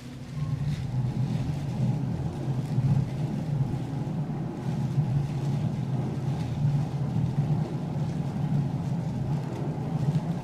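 A steady low mechanical hum that starts abruptly just after the beginning and holds without change.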